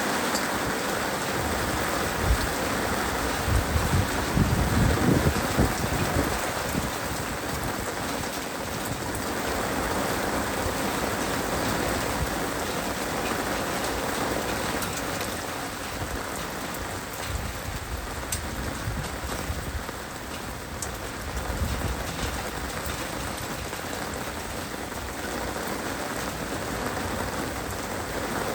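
Heavy rain falling steadily in a dense, even hiss, with a few low rumbling swells about four to six seconds in.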